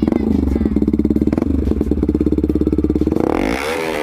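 Yamaha R15's single-cylinder engine running through an aftermarket full-system exhaust. It idles with a fast, even pulse, then a quick blip of the throttle about three seconds in raises and drops the pitch.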